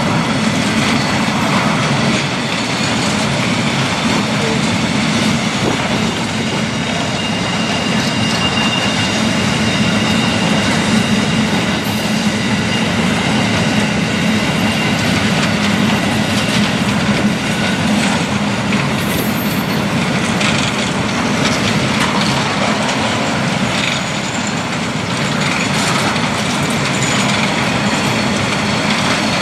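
Grain hopper wagons of a freight train rolling past: the steady noise of steel wheels on rail, with faint high wheel squeal now and then.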